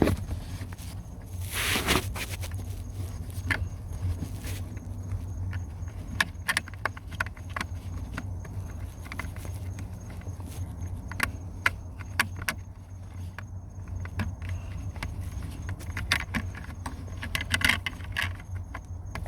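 Handling noise while fitting a replacement seat HVAC filter under a car seat: scattered small plastic clicks and rustling, with a brief scrape or rush about two seconds in, over a steady low hum.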